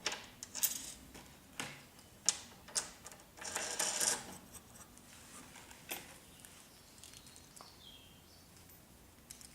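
Scattered clicks and short rattles of small hardware, bolts, washers and knobs, being handled while the metal fence is bolted to the router tabletop, busiest in the first half with a brief cluster of rattling around four seconds in.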